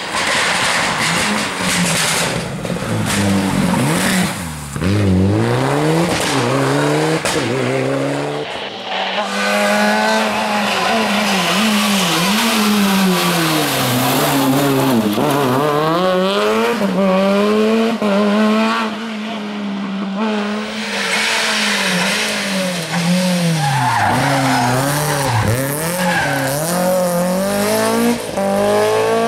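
Rally car engine revving hard, its pitch climbing and dropping again and again through gear changes and lifts, with tyres squealing and skidding.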